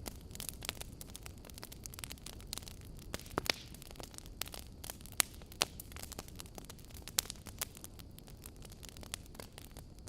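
Fireplace fire crackling: irregular sharp pops and snaps over a low steady rumble, with a few louder pops.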